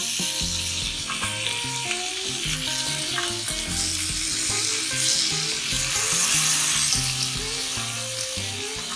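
Marinated chicken steaks sizzling and frying steadily on a hot ridged grill pan.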